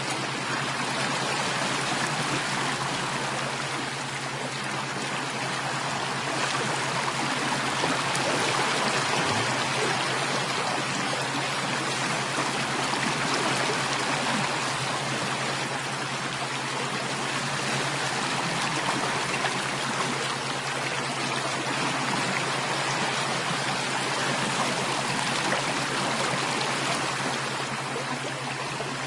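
Water flowing steadily in a stream, a continuous even rush with no breaks.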